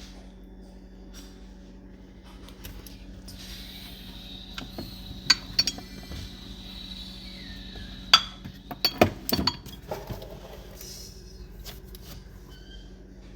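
Scattered light clinks and knocks, with the sharpest ones clustered about two thirds of the way through, over a low steady hum.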